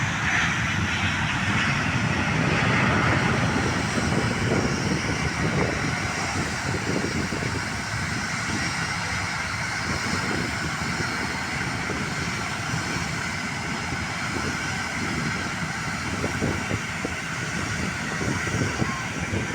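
Jet airliner engine noise, loudest in the first few seconds and then easing off slightly.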